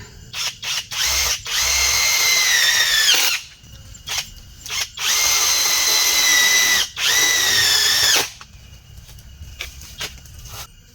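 Power drill driving screws into wood: a few short blips, then three long runs of a steady motor whine, each sagging in pitch at the end as the screw seats.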